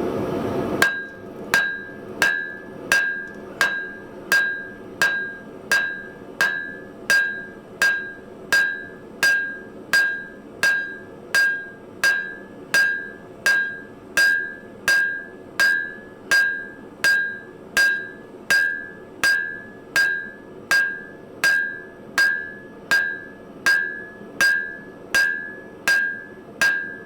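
Blacksmith's hand hammer striking a bar of hot steel on an anvil in a steady rhythm, about three blows every two seconds, each blow followed by a brief ringing ping from the anvil. This is drawing out a long square taper. A short steady rushing noise comes before the first blow.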